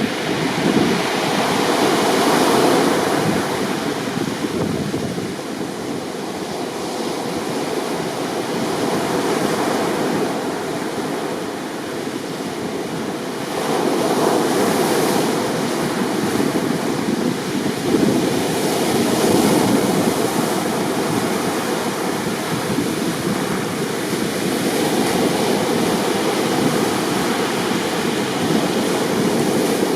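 Rough sea: heavy surf breaking and washing in a continuous rush of water, swelling louder about two seconds in and again around fourteen and nineteen seconds.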